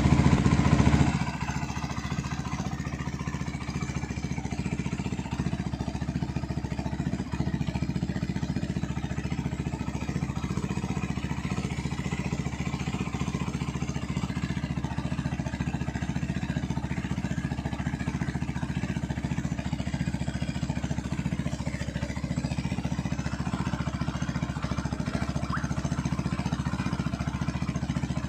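Benelli Leoncino 250 SE motorcycle's single-cylinder engine, exhaust heat-wrapped, idling steadily after a louder first second.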